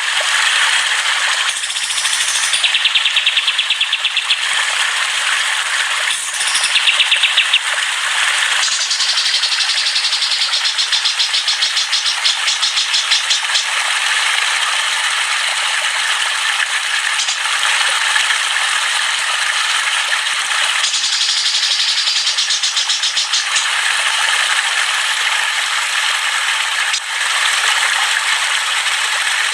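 Chattering songbirds (burung ocehan) in loud, continuous rapid trills and chatter, their song changing abruptly every few seconds.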